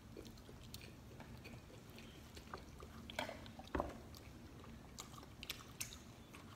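Faint chewing and mouth sounds of people eating pizza, with scattered small clicks and a soft bump a little under four seconds in.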